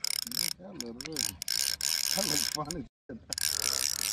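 Spinning reel cranked steadily, its gears and rotor whirring and clicking as line is wound in. Brief low vocal sounds come under it twice, and the sound cuts out for a split second about three seconds in.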